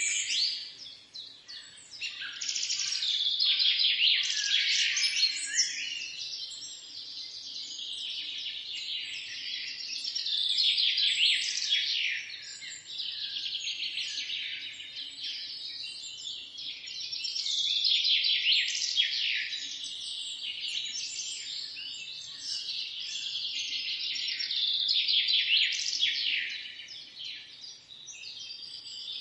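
Many small birds chirping and twittering at once in a dense, unbroken chorus of high, quick calls that swells and fades every several seconds.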